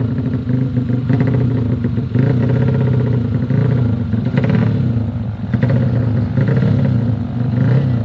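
DOHC motorcycle racing engine revving, its pitch rising and falling again and again.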